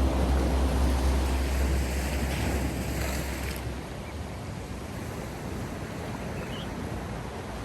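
Sea surf washing steadily, with a low engine drone that fades out about four seconds in.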